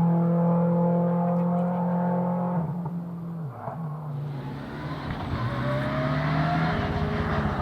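Rally car engine held at high revs and fading as it goes away, then another rally car approaching and getting louder from about four seconds in, with a short rising whine as it comes on.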